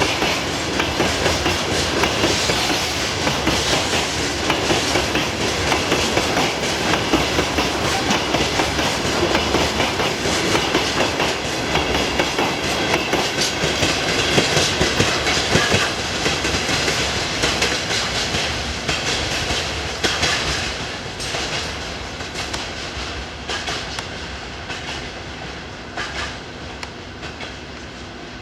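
Train cars of a departing maintenance train rolling past, wheels clacking over rail joints, the noise fading over the last several seconds as the train moves away.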